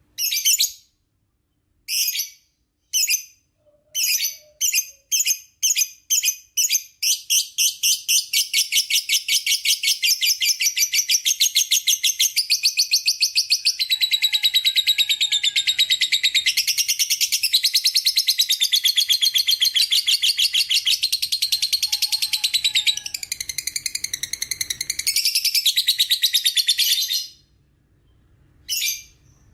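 Lovebird's long 'ngekek' chatter. A few separate shrill chirps come faster and faster, then run together about eight seconds in into one long, rapid chattering trill, which stops abruptly near the end.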